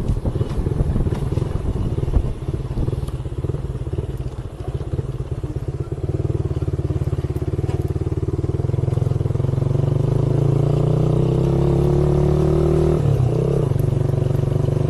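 Motorcycle engine running while riding. Its note climbs steadily from about halfway through, with a brief break in the note near the end.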